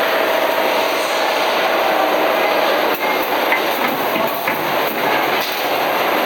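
Capillary tube cutting machine running with a steady mechanical noise and a faint hum. A few sharp clicks come between about three and five and a half seconds in.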